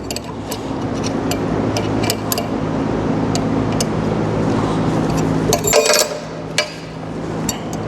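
Scattered metallic clicks and clinks of tools and metal parts being handled on a paint pump, with a cluster of clinks around six seconds, over a steady low machine hum that drops out briefly after the cluster.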